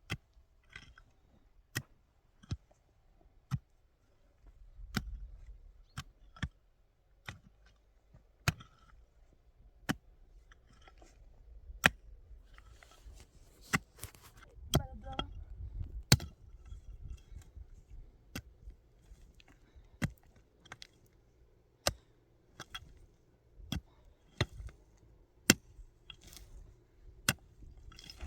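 A long series of sharp knocks or chopping strokes at an uneven pace, roughly one a second, over a faint low background noise.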